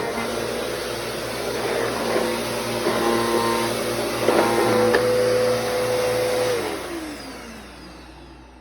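Bissell CleanView 3536 upright vacuum cleaner running steadily, then switched off about six and a half seconds in, its motor whine falling in pitch as it winds down.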